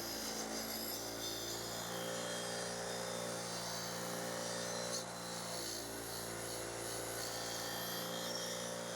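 Electric bench grinder with a wire wheel running steadily, its motor giving a constant hum with grinding hiss.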